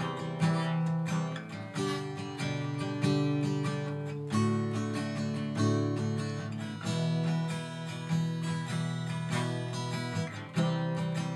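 Acoustic guitar strumming chords in an instrumental break between sung verses.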